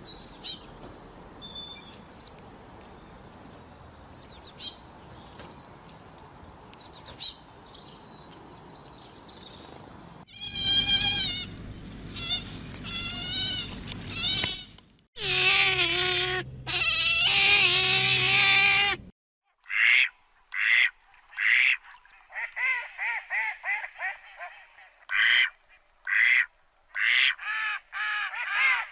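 A sequence of animal calls: scattered high bird chirps over steady outdoor noise for about the first ten seconds, then two long, wavering calls, then a run of short, rapidly repeated calls to the end.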